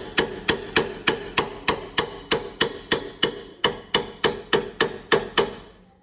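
A hammer striking the bent exhaust pipe of an Abarth 595 in a steady run of about three blows a second, each blow ringing metallically. The hammering stops near the end.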